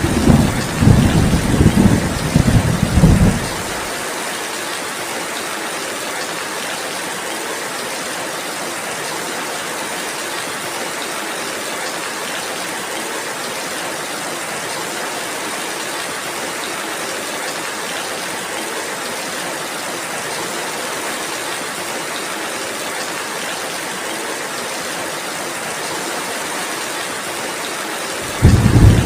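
Steady rainfall, an even hiss. A heavy low rumble under it stops abruptly about four seconds in and returns just as abruptly near the end.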